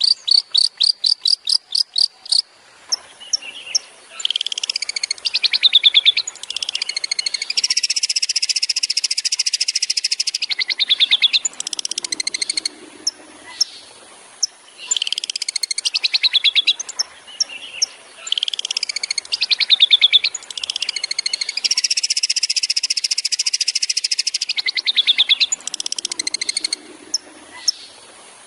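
Long-tailed shrike (cendet) singing a loud, fast and varied song of high trills and quick repeated notes. It opens with a rapid series of sharp notes, about five a second.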